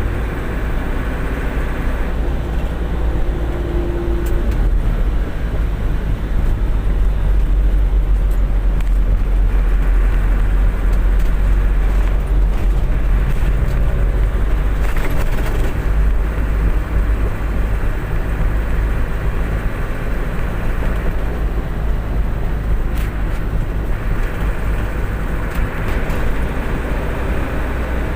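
Truck running, engine and road noise making a steady low rumble.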